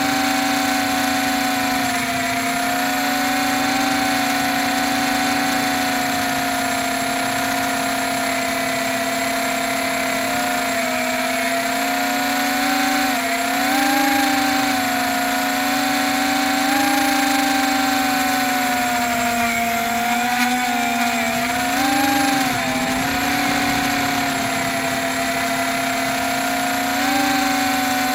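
Small multirotor drone's motors and propellers whining steadily, the pitch wobbling up and down several times as it flies rough with a bad motor and a loose arm.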